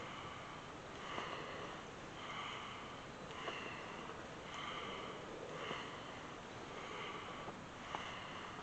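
Rhythmic breathing through the nose during the cat-cow spinal flex, with a short breathy stroke about once a second.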